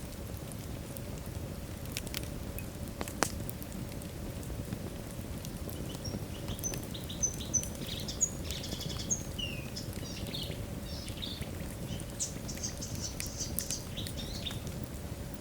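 Logs burning in a fireplace: steady crackling with scattered pops, one sharp pop about three seconds in. Through the second half a run of short, high, thin chirps sounds over the crackle.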